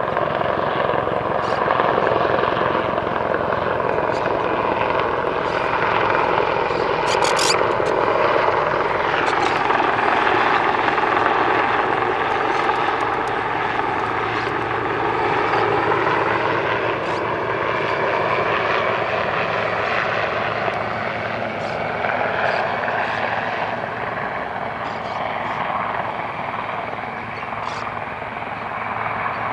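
Helicopter flying low overhead, its rotor and engine noise loud and continuous, with the pitch bending down and back up twice as it moves past. It eases off a little near the end.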